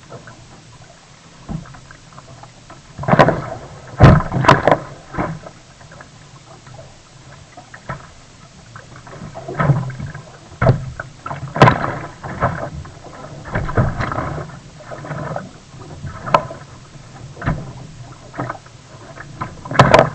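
Sea kayak paddling: uneven paddle strokes splashing in the water, roughly one a second, with some sharper knocks.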